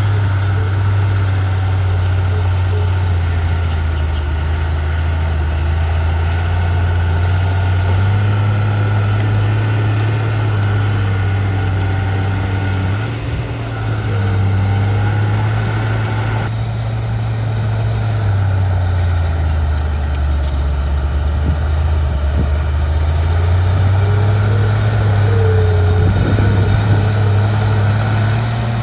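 Bulldozer's heavy diesel engine running, its pitch rising and falling slowly several times as the revs change.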